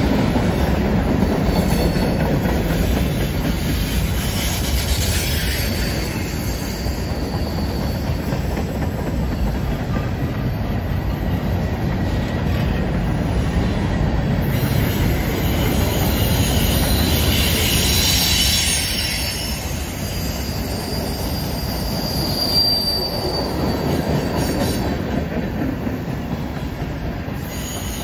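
Freight cars, mostly tank cars and covered hoppers, rolling past with a steady rumble and rattle of wheels on rail. Now and then there is a thin, high wheel squeal as the cars run into the curve, most plainly near the middle and about two thirds of the way through.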